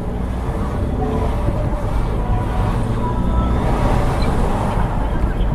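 Steady low rumble of a car driving, engine and road noise picked up inside the cabin.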